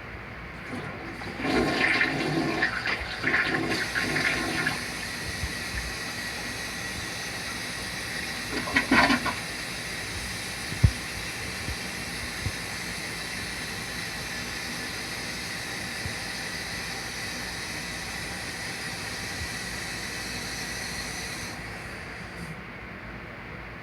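Toilet flushing: a loud rush of water for about three seconds, a brief louder burst a few seconds later and one sharp knock, then a steady hiss of the tank refilling that stops near the end.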